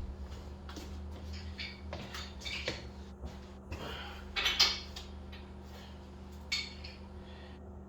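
Steel wrenches clinking and rattling against the rear axle nut and bolt head as they are worked to break the nut free, in irregular metallic knocks, the loudest about four and a half seconds in.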